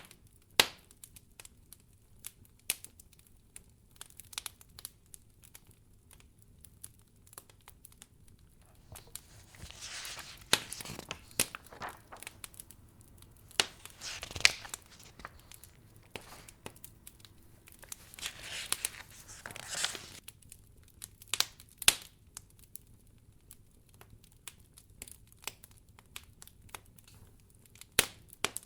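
Wood fire crackling in a fireplace, with scattered sharp pops and snaps, and several longer rustling swells of a few seconds each.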